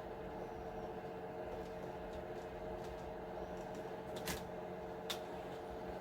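A couple of sharp little clicks of plastic and metal RC truck parts being handled during disassembly, one after another about four and five seconds in, over a steady electrical hum.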